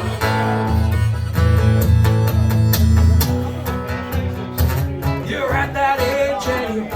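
Live acoustic guitar and harmonica playing an instrumental break in a country-folk song, with the guitar strumming chords and a wavering melodic lead line coming in over the second half.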